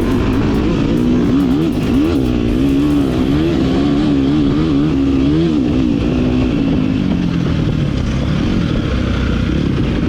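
Motocross bike engine revving up and down as it is ridden round a dirt track, its pitch rising and falling over and over with the throttle.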